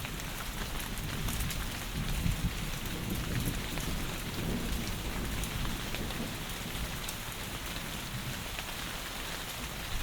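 Heavy rain falling steadily, with a low rumble of thunder swelling about two seconds in and fading a few seconds later.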